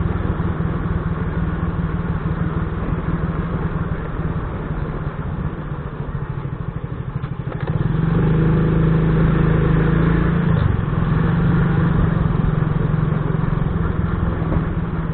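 Engine of a motorized plow running steadily. It eases off slightly in the middle, then picks up louder about eight seconds in.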